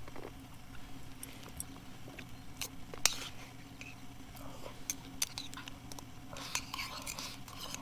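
Scattered light clicks, taps and clinks of camp cookware and utensils being handled, the sharpest about three seconds in, over a faint low steady hum.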